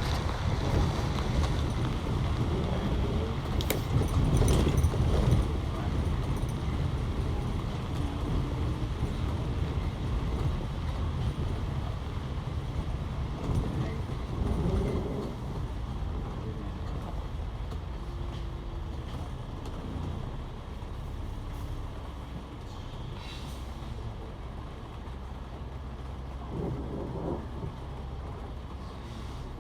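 Low rumble of road traffic, loudest in the first several seconds and slowly fading.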